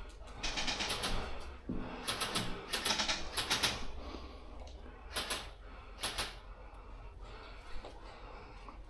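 Airsoft guns firing in short bursts of rapid clicks. There are several bursts in the first four seconds, then two shorter ones a little later.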